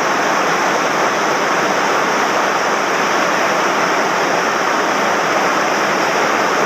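Loud, steady rush of a swollen mountain stream, its water running high and fast after heavy rain.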